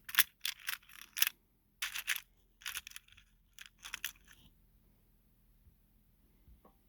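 Small plastic model-locomotive parts being handled: a run of irregular clicks, scrapes and crinkles lasting about four seconds.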